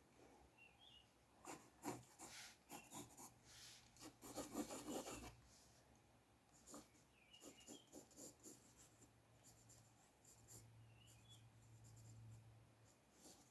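Faint scratching of drawing strokes on paper, coming in short irregular bursts, with a denser run of scratching about four to five seconds in.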